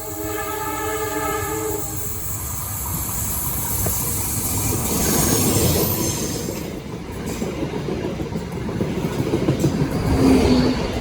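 An Indonesian railway train's horn sounds one steady chord until about two seconds in. Then the train passes close by, its wheels clattering loudly over the rails.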